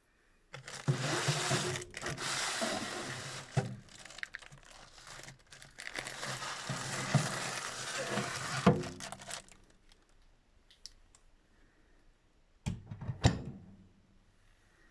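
Rustling, crinkling handling noise with scattered knocks for about nine seconds, then a few sharp knocks near the end.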